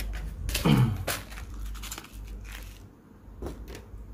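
A few light clicks and taps from small tools handling tiny phone screws during reassembly, over a steady low hum. A brief vocal murmur comes just under a second in.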